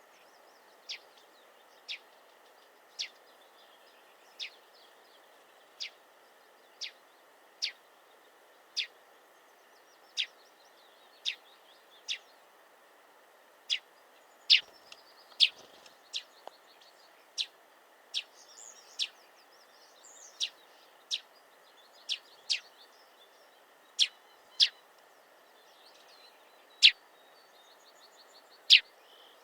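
A small songbird repeatedly giving a short, sharp, downward-sweeping call, roughly once a second, some calls louder than others, with faint twittering from other birds behind it.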